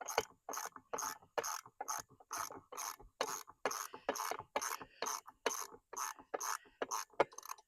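Ratchet wrench being worked back and forth on a bolt of a Chrysler 15 hp outboard's lower unit, its pawl clicking in an even rhythm of about three strokes a second, loosening the bolt. The strokes stop just before the end.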